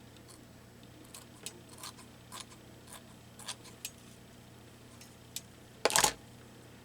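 Scissors snipping strips of craft material: a series of small, quick cuts, then a louder clatter about six seconds in.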